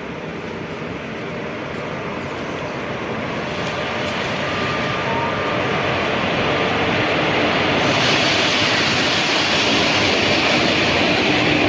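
A train approaching, its running noise growing steadily louder, with a brighter, louder rush of noise setting in about eight seconds in.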